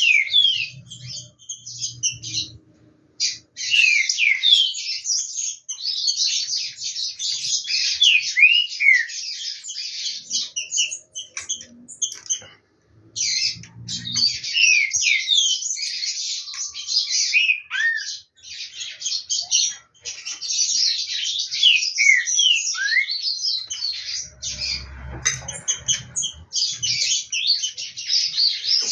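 Green-winged saltator (trinca-ferro) singing its loud, rapid, whistled song in long phrases separated by short pauses, warming up its voice for the singing season. A brief low rumble sounds under the song about twenty-five seconds in.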